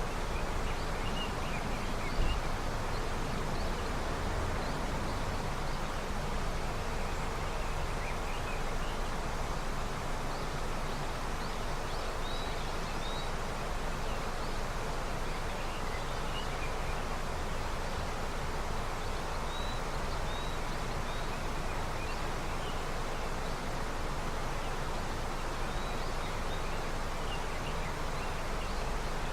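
A river running with early snowmelt: a steady rush of flowing water, with faint, scattered high chirps of small birds over it. A brief thump about two seconds in.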